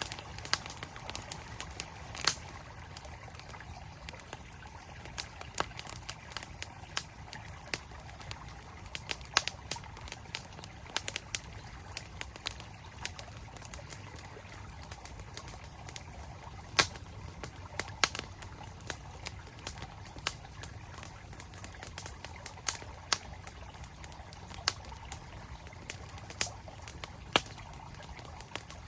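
Campfire wood crackling with frequent sharp, irregular pops, over the steady rush of a flowing mountain stream.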